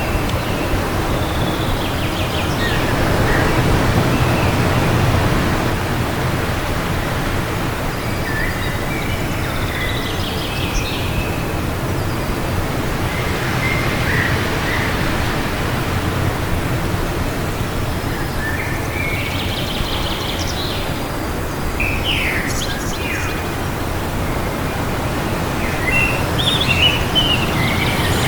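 Steady wind rushing, with birds chirping and giving short calls every few seconds, busiest near the end.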